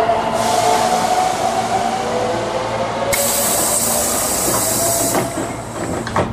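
Hankyu 8300 series train pulling into a station: the motor whine falls slowly in pitch as the train brakes. About three seconds in there is a strong burst of compressed-air hiss lasting about two seconds, and a few clunks follow near the end.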